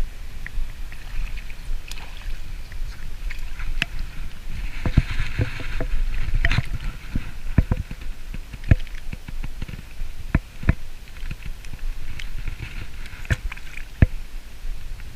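Kayak on the water: water splashing and dripping in two spells, with scattered hard knocks against the hull and a low rumble of wind on the microphone.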